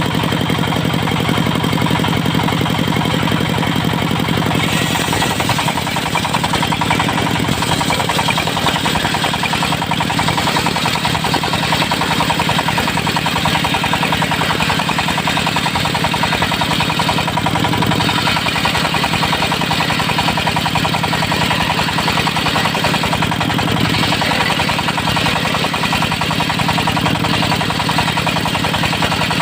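Diesel-driven portable circular sawmill running steadily while sawing teak, the engine's low, even drone under the saw; about five seconds in a harsher, hissing high sound joins and stays.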